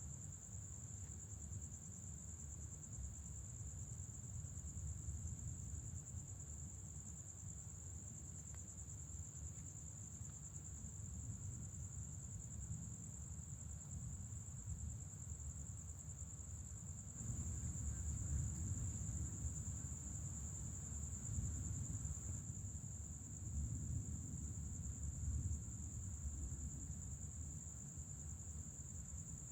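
Night insects, crickets, chirring steadily at one high pitch, over a low rumble that grows louder a little past the middle and eases off near the end.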